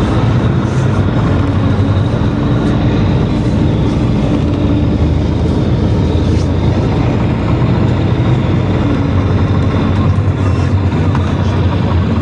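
PAZ-422320-04 Citymax 9 city bus on the move, heard from inside the passenger cabin: a steady engine drone with road and body noise.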